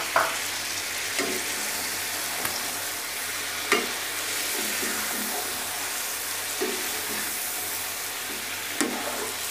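Chicken pieces sizzling in hot oil in a karahi with their spices while a spatula stirs them, with several short knocks and scrapes of the spatula against the pan.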